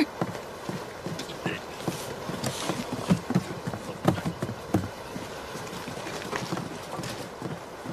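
Irregular footfalls knocking on a hard surface, over a steady background hiss.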